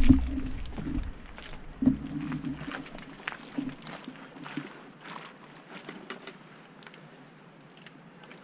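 Dirt bike engine, a Yamaha YZ450FX 450 cc single-cylinder four-stroke, running unevenly and then cutting out about three seconds in; after that come only faint scattered clicks.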